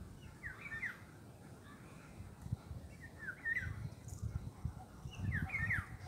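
A songbird calling in three short bursts of quick, down-slurred chirps, a couple of seconds apart, over a low, uneven rumble.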